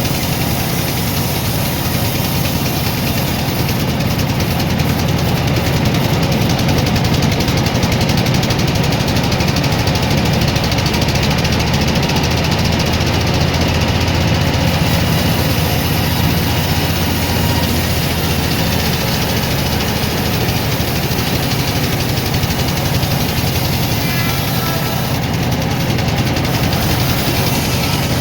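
Sawmill machinery running steadily, a loud continuous engine-like drone.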